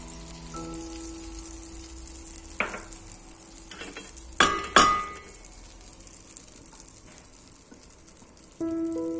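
Food frying in a pan with a steady sizzle, and a utensil clinking against the pan three times around the middle, the last two loudest. Soft background music with held notes plays throughout.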